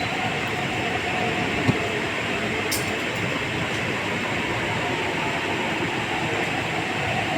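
MTR East Rail line R-train running, a steady rumble and hiss with a faint steady tone. A short click comes about a second and a half in, and a sharper high click comes near three seconds in.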